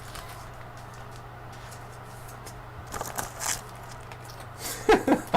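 Trading cards being handled: short rustles and scrapes of card stock, about three seconds in and again near the end, over a low steady hum.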